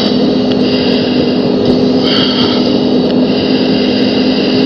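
Steady, loud drone of a CT-114 Tutor jet's turbojet and rushing air heard inside the cockpit, with a constant low hum and a high whine.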